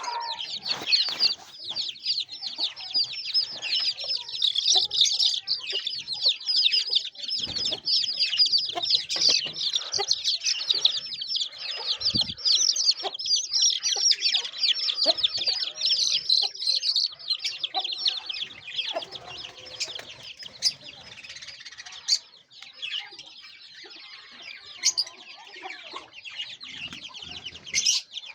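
Many chicks peeping at once: a dense, constant stream of rapid high-pitched peeps that thins out after about seventeen seconds.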